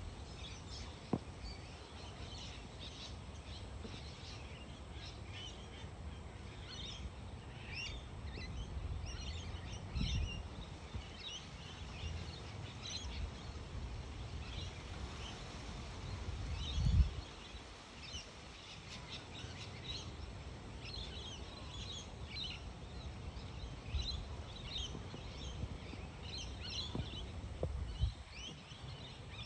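Many small birds chirping and twittering throughout, over a low steady rumble, with a dull thump about ten seconds in and a louder one at about seventeen seconds.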